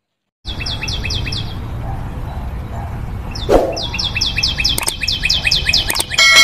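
Bird chirping in rapid runs of high, falling chirps, several a second, over a steady low hiss, with a pause after about a second. A short whoosh about three and a half seconds in, and two sharp clicks later.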